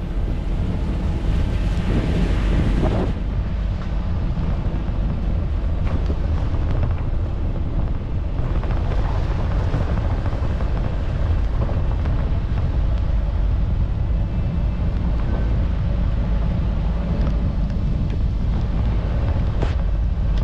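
A moving vehicle's steady road rumble, with wind buffeting the microphone.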